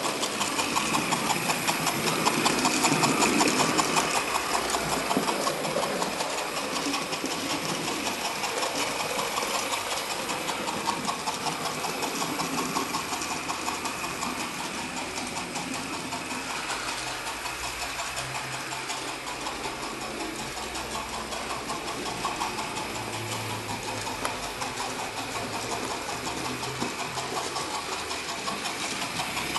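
Hornby OO gauge B12 model steam locomotive running around the layout under power from its analogue controller: a steady whirr of the small electric motor and drive with a fast, even ticking.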